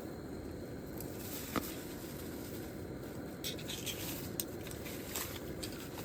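Wind buffeting the microphone as a steady low rumble, with a few short sharp clicks and scrapes of handling scattered through the middle.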